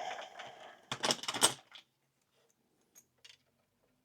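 Small metal parts and tools being handled on a workbench: a brief rustle, then a quick cluster of sharp clicks and clinks about a second in, and two faint clicks near three seconds.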